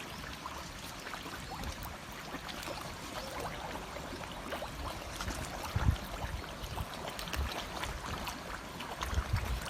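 Water running and trickling steadily with fine crackling. There are low bumps on the microphone about six seconds in and again near the end.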